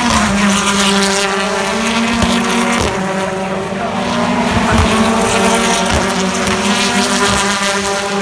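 Engines of BTCC touring cars (2.0-litre turbocharged four-cylinders) running hard at high revs, with several engine notes overlapping and their pitch stepping up and down as the cars shift gear.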